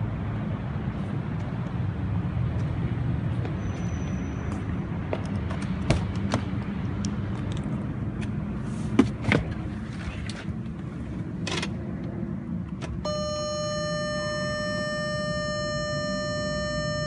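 Bentley 6.0-litre twin-turbo W12 engine running at a steady idle, with scattered clicks and a couple of knocks in the middle. About thirteen seconds in, a steady pitched tone comes in and holds.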